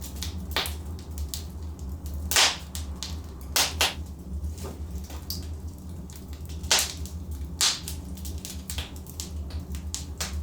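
Logs burning in a fireplace: irregular crackling with sharp pops, the loudest about two and a half seconds in and near the seven-second mark, over a steady low rumble.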